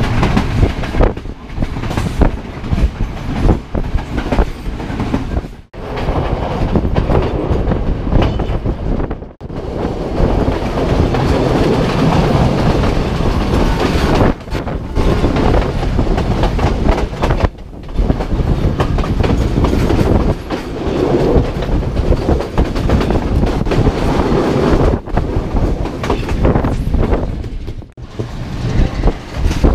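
Passenger train running along the line: a loud, steady rumble with wheels clattering over the rail joints. The sound breaks off for a moment a few times.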